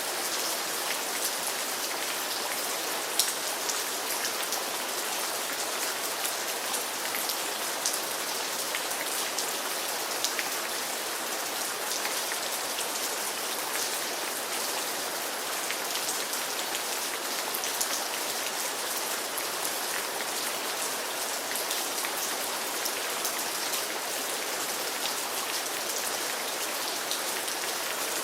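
Steady rain falling, a continuous hiss with many individual drops ticking.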